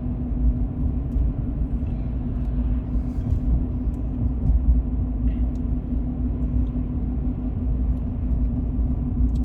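Steady road noise inside a moving car's cabin: an even rumble of tyres and engine at cruising speed with a constant low hum.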